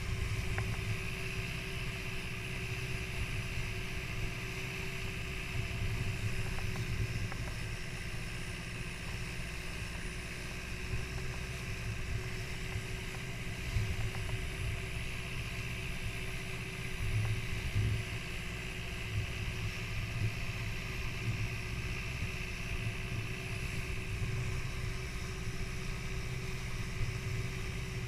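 Boat engine running steadily: a low rumble with a constant droning tone and some rushing noise above it.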